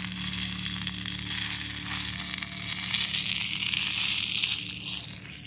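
Chicken frying in hot oil over a campfire, a steady sizzle with small crackles that fades near the end.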